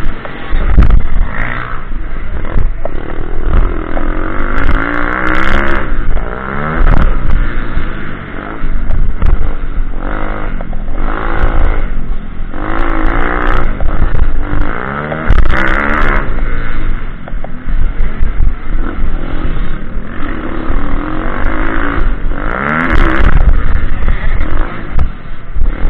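Small pit bike engine revving up and falling back over and over as the bike is ridden around an off-road track, loud throughout.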